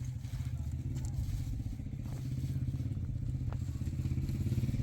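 An engine running steadily with a low, rapid pulsing, growing slightly louder near the end.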